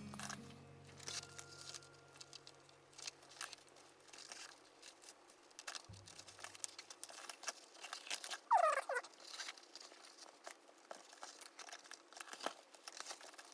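Small handling sounds of leather handwork: light ticks, taps and rustles, with one brief squeak that falls in pitch about eight and a half seconds in. Quiet background music fades out about six seconds in.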